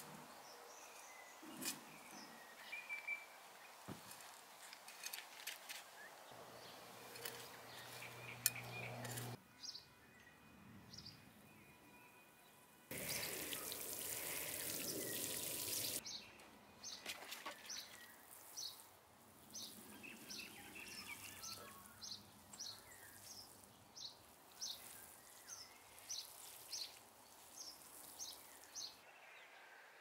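Garden sounds: a small hand trowel scratching and clicking in loose soil, then a few seconds of steady hiss, then a bird repeating one short high chirp about one and a half times a second for more than ten seconds.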